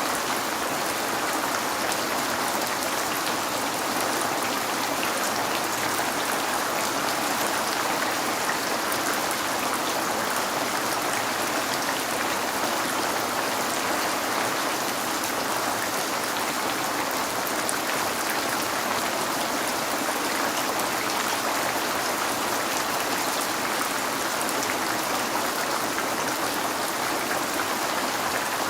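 Steady rain falling on a window, an even hiss with faint scattered drop ticks.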